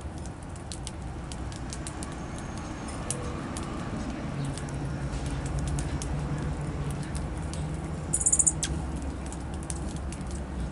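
Small songbirds at a seed feeder: scattered light clicks and patter of pecking and fluttering, with one brief high chirp about eight seconds in, over a low steady rumble.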